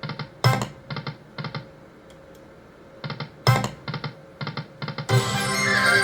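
Lightning Link Best Bet slot machine playing two spins, each a run of short electronic tones about half a second apart as the reels stop. About five seconds in, a longer, louder and busier electronic jingle starts.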